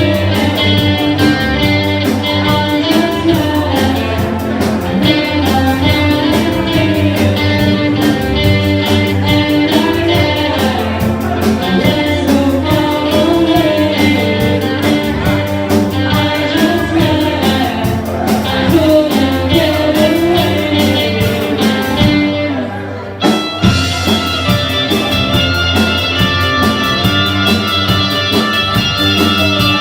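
Live rock band playing: electric guitar, drums and a sung vocal line over a steady beat. About three-quarters of the way through, the music drops out for about a second, then comes back in with long held steady notes over the beat.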